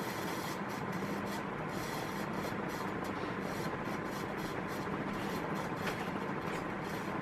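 A vintage 1980s Satellite Miser 36-inch commercial ceiling fan running steadily: a smooth, even rush of moving air over a faint steady motor hum.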